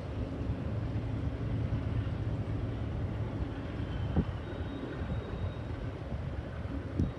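Double-stack intermodal freight train rolling by: a steady low rumble from the container cars, with a couple of brief knocks.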